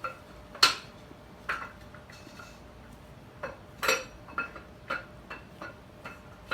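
Irregular sharp metallic clinks, about a dozen, each with a short ring. Two near the start and near four seconds in are the loudest.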